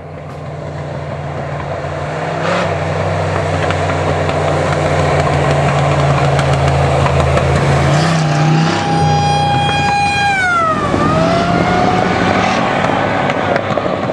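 A vehicle engine running steadily, growing louder over the first couple of seconds. About ten seconds in, a high whine falls in pitch and then rises again.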